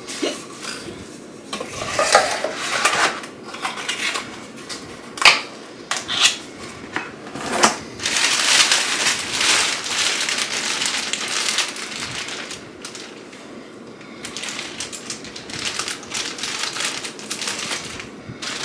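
Items being handled and unpacked by hand: a few sharp knocks and taps, then two long stretches of packaging crackling and crinkling as the next item is unwrapped.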